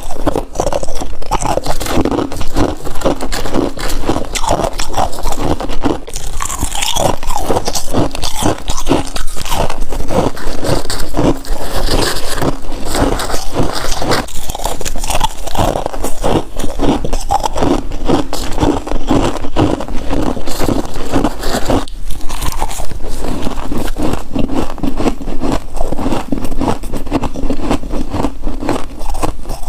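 Close-up crunching and chewing of freezer frost: a rapid, continuous run of crisp bites and chews on packed frost.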